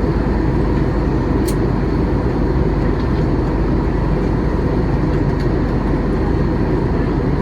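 Steady in-cabin noise of a Boeing 737-800 airliner in flight: the rush of air past the fuselage and the drone of its jet engines, heard from a passenger seat during the descent.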